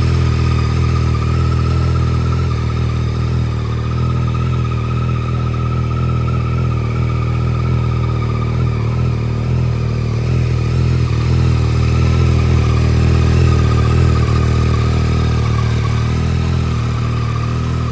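Yamaha MT-09's three-cylinder engine running steadily at idle.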